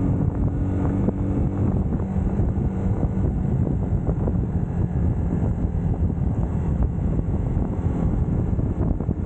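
UM Scrambler X motorcycle engine running steadily under way, with wind buffeting the camera microphone.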